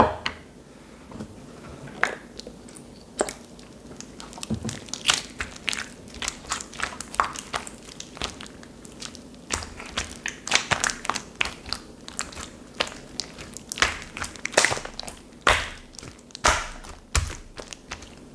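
Slime being pressed and played with by hand, making irregular sharp sticky clicks and pops that come more thickly after the first few seconds.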